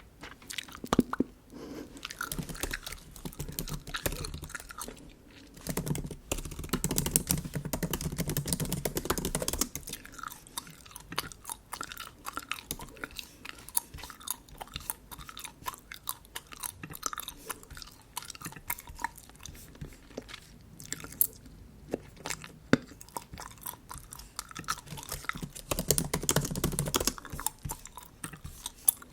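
Bubble gum chewed close to the microphone: a steady run of wet, sticky mouth clicks and smacks, busier and louder for a few seconds about a third of the way in and again near the end.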